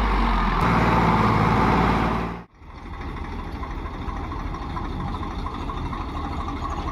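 Heavy diesel engine running loudly, cutting off abruptly about two and a half seconds in. A quieter engine then runs steadily with a fast, even knock.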